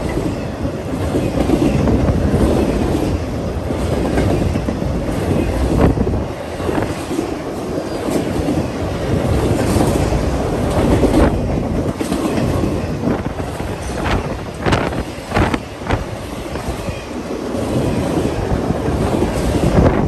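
A long freight train of about 438 axles rolling past steadily. Its steel wheels clack over the rail joints, with a cluster of sharper knocks about three quarters of the way through.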